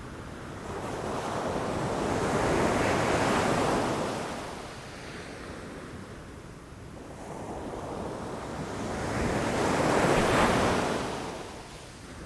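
Ocean waves breaking against rocks: two waves, each swelling up and falling away, the first about three seconds in and the second, slightly louder, about ten seconds in.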